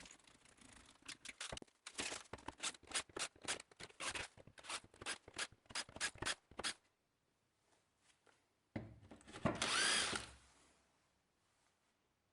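20 mm Forstner drill bit marking hole centres in plywood through the holes of a template table. First comes a quick run of short scraping strokes, about three a second, then a drill runs briefly about nine seconds in.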